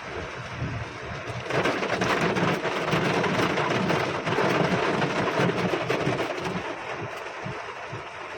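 Heavy rain drumming on a moving car, heard from inside: a steady rushing noise that swells about a second and a half in and eases toward the end.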